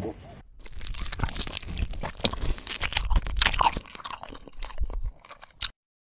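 Dense, irregular crunching and crackling, like chewing. It starts about half a second in and cuts off suddenly just before the end.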